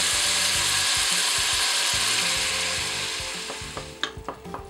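Onion, garlic and green beans sizzling in hot olive oil in a steel pot, the sizzle dying away over the last two seconds as tomato sauce goes in and cools the pan. Near the end come a few light clicks of a wooden spatula stirring against the pot.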